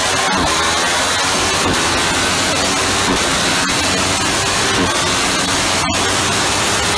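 Ducati 1299 Panigale's 1285 cc Superquadro V-twin running hard on a dyno, a loud, dense wash of engine and exhaust noise whose pitch shifts up and down.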